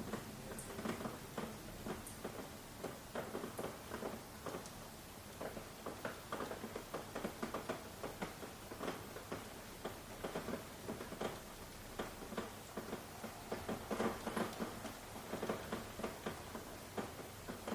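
Rain falling, heard as a dense, irregular patter of drops tapping on a surface, several taps a second.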